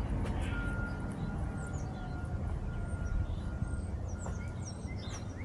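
Outdoor background: a steady low rumble with short high bird chirps and a thin, steady high tone that comes and goes.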